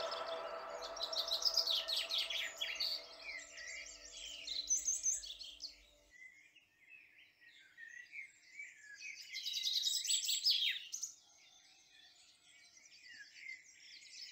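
Small birds chirping and singing in quick repeated phrases, with background music fading out in the first few seconds.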